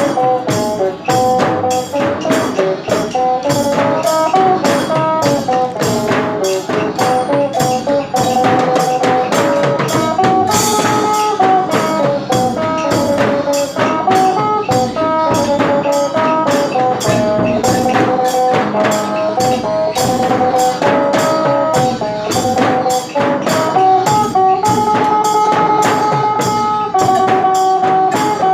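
Isan phin, the plucked Thai lute, playing a lively stepping melody over a steady, fast percussion beat.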